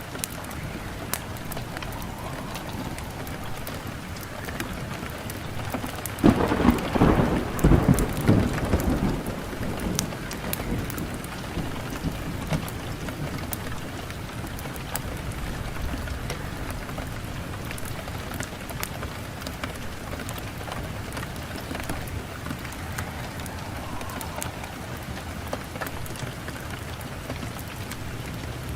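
Wood fire in a fireplace crackling steadily, with sharp pops throughout. About six seconds in, a louder low rumble rises and fades over roughly three seconds.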